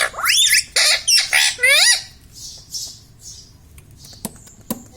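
Indian ring-necked parakeet squawking: a quick run of loud calls that sweep up and down in pitch over the first two seconds, then softer, shorter chirps.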